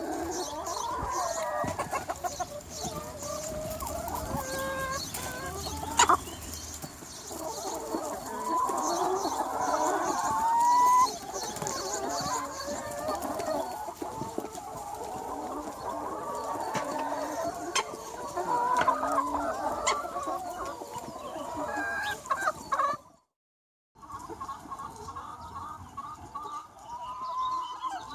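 A large free-range flock of chickens clucking and calling over one another without a break. There is a sharp click about six seconds in, and the sound drops out for about a second near the end before the clucking resumes.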